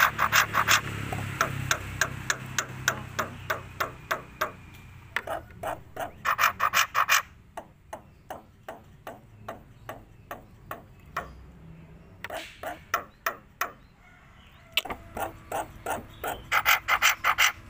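A black-winged myna (jalak putih) calling in runs of sharp, rapid clicking notes, about six a second, in bursts with short pauses between them.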